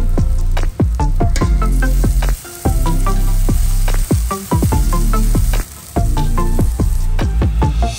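Food frying in oil in a pan: a steady sizzle with many sharp crackles and pops, with background music underneath.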